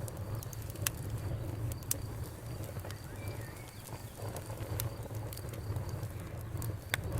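Campfire crackling with scattered sharp pops, over a steady low rumble of flowing river water and a faint, steady pulsing cricket chirp.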